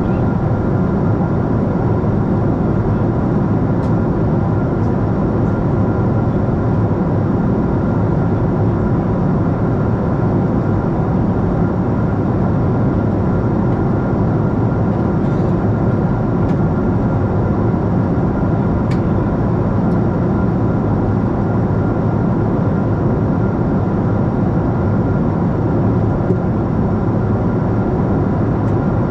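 Steady jet noise inside a Boeing 747-8 airliner: a constant low roar of engines and airflow with a faint steady whine above it, unchanging throughout.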